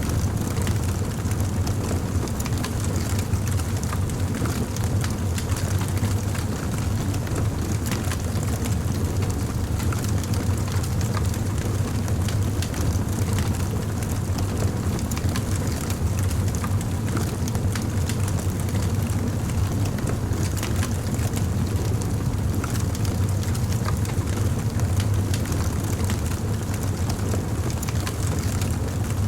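Fire crackling steadily, with small scattered pops over a constant low rumble.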